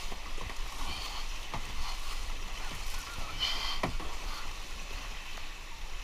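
Fast floodwater rushing around a kayak, with a few sharp splashes, among them paddle strikes on the water.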